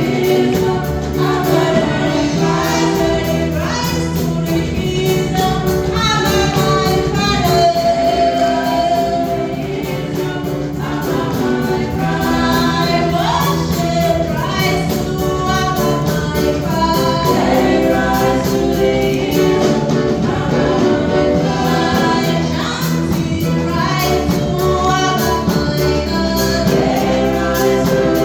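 Gospel worship song: a choir singing over steady instrumental backing.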